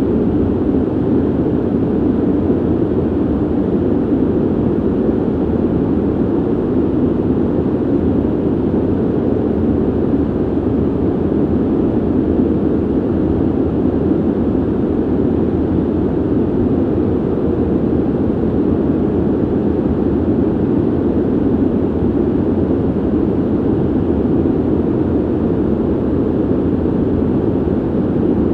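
Steady ventilation noise: an even, deep rush of air that never changes, mostly low in pitch with little hiss.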